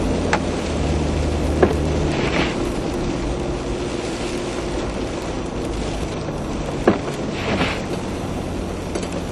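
Four-wheel-drive vehicle driving on snow-covered streets, heard from inside the cabin: a steady engine and road hum, with a few sharp clicks and two brief swishes.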